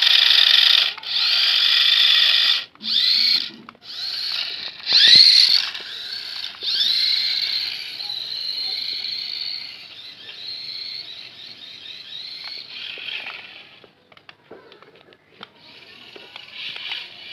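Small electric motor and gearbox of a miniature 4x4 car whirring at a high pitch in repeated bursts, its pitch rising as it speeds up. It then runs on more quietly and unevenly, nearly stopping once before starting again faintly.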